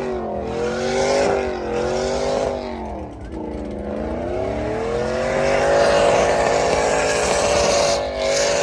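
Truck engine revving: the revs rise and fall about three times, then climb and are held high for several seconds with a hiss underneath.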